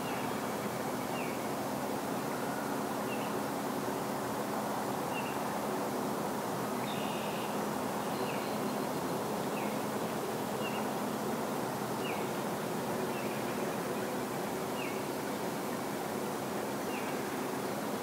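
A bird repeating a short, slightly falling call note about every one to two seconds, over a steady background hum of outdoor ambience.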